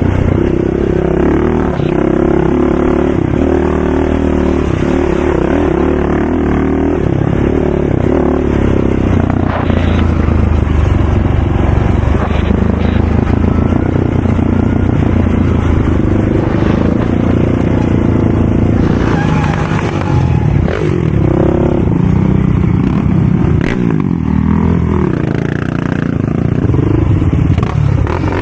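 ATV engine running hard under race conditions, its pitch rising and falling as the throttle is opened and closed, with some clattering.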